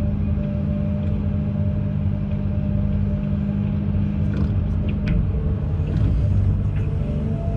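Diesel engine of an amphibious excavator running steadily under load. The engine note shifts about five seconds in, with a few short clanks.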